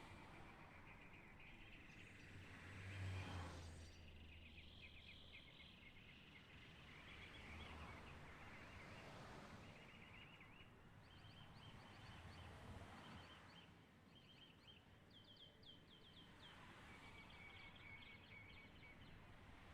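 Faint outdoor ambience with birds chirping in short repeated trills, plus a brief low rumble about three seconds in.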